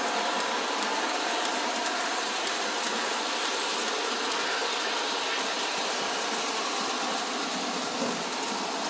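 Model train running along the layout track: a steady whirring hum of the locomotive's motor and wheels on the rails.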